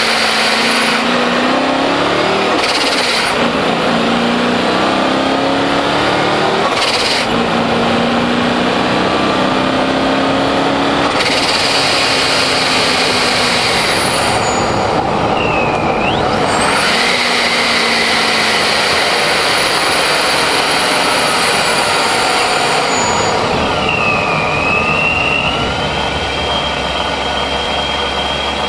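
Supercharged BMW 740iL V8 pulling hard through the gears of its six-speed manual, the engine note climbing in three pulls with gear changes about 3 and 7 seconds in. A high supercharger whine dips and rises again about halfway and near the end, over heavy wind and tyre noise on the outside of the car.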